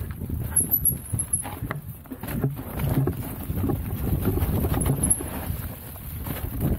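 Haibike electric mountain bike rolling along a forest trail: a low, uneven rumble of tyres on dirt, with many irregular clicks and rattles.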